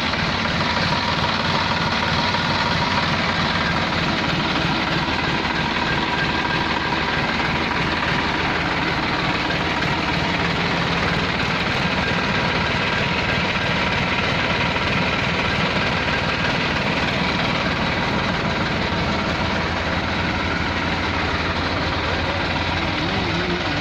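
Massey Ferguson 7250 tractor's diesel engine running steadily.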